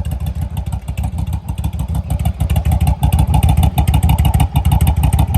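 Yamaha V-Star 1100's air-cooled V-twin running at idle through Cobra Slashcut slip-on mufflers: a steady, loud, deep exhaust beat, a little louder in the second half. The engine is still cold.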